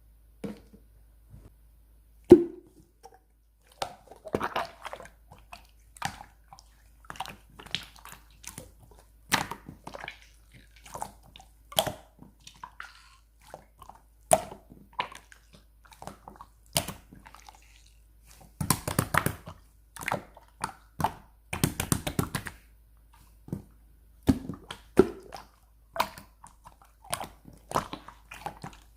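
A handmade tape squishy (꽉꽉이) being squeezed and handled up close: irregular crinkling, crackling and sharp clicks of tape, denser in two stretches past the middle.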